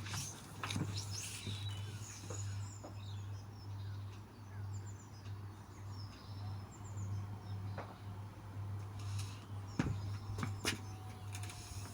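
Small birds chirping over a steady low hum, with a few sharp clicks or knocks in the second half.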